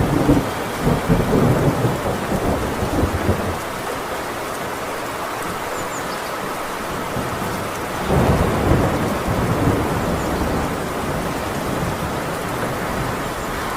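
Thunder rumbling twice over steady heavy rain on a tin roof: a long roll right at the start, and another about eight seconds in that fades away.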